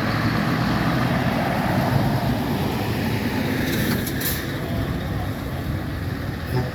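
Heavy vehicle engine running steadily with a low rumble, and a brief hiss about four seconds in.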